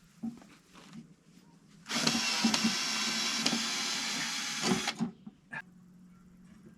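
A small electric motor, like that of a hand-held power tool, runs steadily for about three seconds, starting about two seconds in and cutting off suddenly, with a few light knocks of handling before it.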